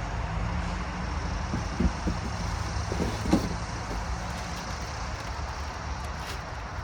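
A steady low engine hum with a few faint knocks about two and three seconds in.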